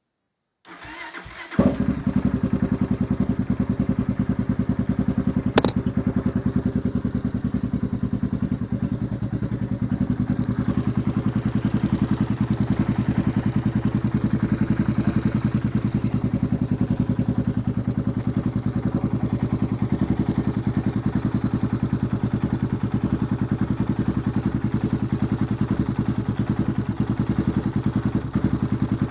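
Honda TRX400EX ATV's air-cooled single-cylinder four-stroke engine, big-bored to 440, cranks for about a second, catches and then idles at an even, steady pace. A single sharp click comes a few seconds after it starts. The owner is not sure this is how the engine should sound.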